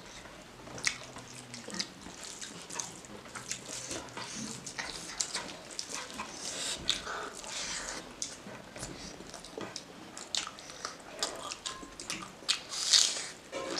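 Close-miked eating by hand: chewing and wet lip-smacking over rice and pork, heard as a steady run of small clicks, with a louder cluster near the end.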